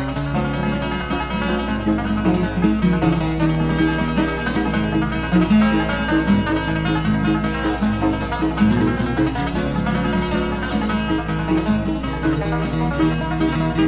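Bluegrass band playing an instrumental passage with no singing: a quick banjo lead over guitar, with bass notes underneath.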